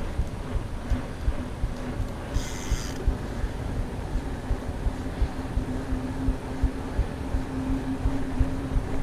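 Mountain bike riding: tyre rumble and wind on the microphone, with frequent knocks and rattles and a steady hum throughout. A brief high-pitched sound comes about two and a half seconds in.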